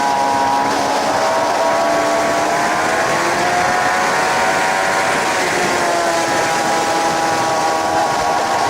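Suzuki GSX-R 750 K7's inline-four engine pulling hard under a heavy rush of wind noise. The engine note climbs, falls back a little just past the middle, then climbs again.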